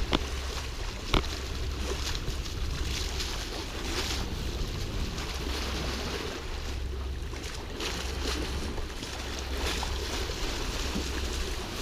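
Wind and rushing sea water aboard a sailing catamaran underway in rough seas, with wind buffeting the microphone. A sharp knock sounds about a second in.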